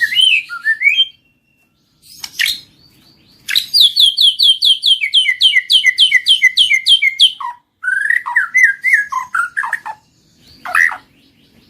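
White-rumped shama (murai batu) singing in separate whistled phrases: a warble, then a long run of repeated down-slurred notes at about four a second, then more varied warbling and a short call near the end.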